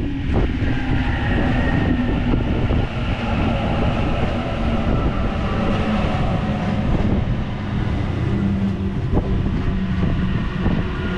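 Sydney Trains A-set Waratah double-deck electric train pulling into the platform: a steady, loud running noise with several whining tones from its electric drive that shift slightly in pitch as it slows, and a couple of faint clicks near the end.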